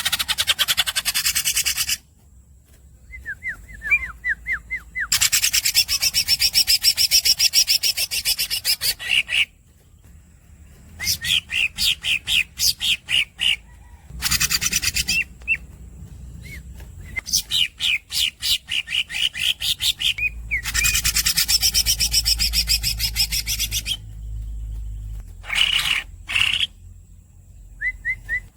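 Green leafbird (cucak ijo) singing: runs of rapid, squeaky high chirps in phrases a few seconds long, with short pauses between. Two phrases are long, dense rolls of about four seconds each.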